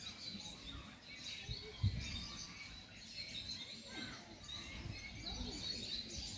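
Small birds chirping over outdoor background noise. A brief low thump about two seconds in.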